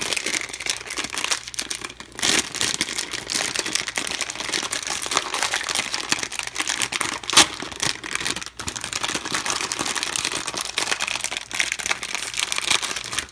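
A foil blind bag being crinkled and torn open by hand: continuous irregular crackling of the plastic foil, with one louder crack a little past the middle.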